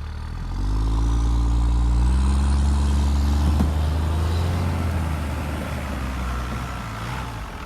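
Vehicle engine accelerating. It swells about half a second in and climbs in pitch for about three seconds, then drops to a lower, steadier note and slowly fades.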